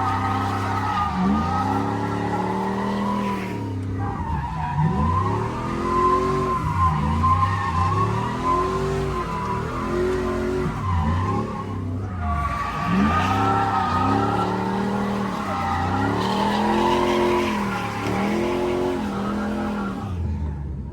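Drift car's engine revving up and down over and over while the tyres squeal through a slide. The squeal briefly drops out twice, about four seconds and twelve seconds in.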